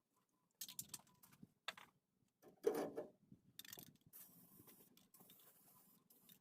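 Scattered clicks and light knocks of tools and parts being handled during suspension work, with one louder knock about three seconds in.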